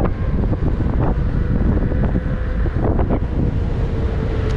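Wind buffeting the microphone of a rider moving at speed on an electric unicycle, a steady low rumble with a faint thin steady tone running under it.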